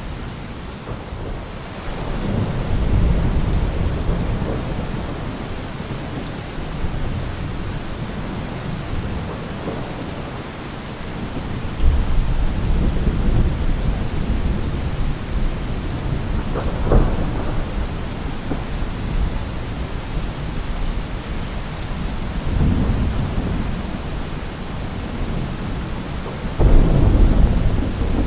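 Steady heavy rain with repeated rolls of thunder. There is a deep rumble about two seconds in, a sharper clap about twelve seconds in, a brief crack a few seconds later and a loud low roll near the end.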